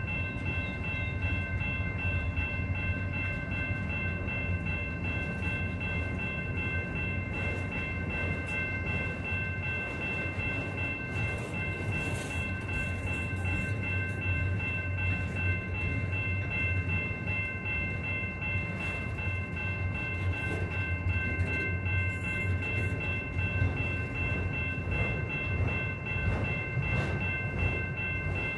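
Freight train rolling past, its cars making a steady low rumble, with a steady high-pitched ringing tone over it.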